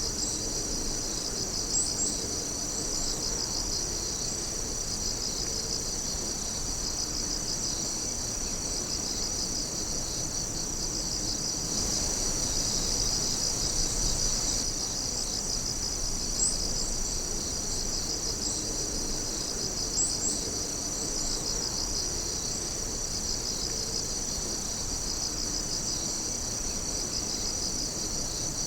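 A steady chorus of night insects: many crickets trilling and chirping together, high-pitched and continuous, with a few brief louder chirps standing out now and then.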